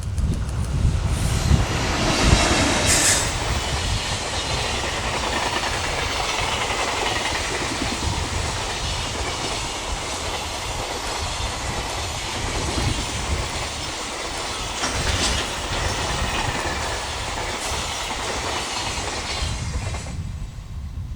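EH500-hauled container freight train passing, wheels clattering over the rail joints, loudest in the first few seconds, with brief high-pitched wheel squeal twice. It fades off about a second before the end.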